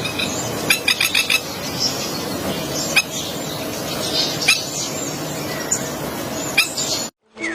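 Bird calls over a steady rushing background: a quick run of about six short chirps about a second in, then single sharp calls at intervals of a second or two.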